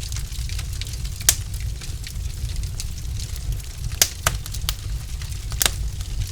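Logs burning in a fireplace, crackling: sharp pops over a steady low rumble of the fire. There is one loud pop about a second in and a cluster of pops in the second half.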